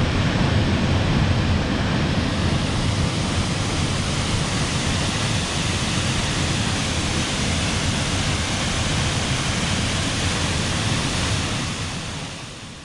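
Waterfall: steady rushing of falling water, fading out near the end.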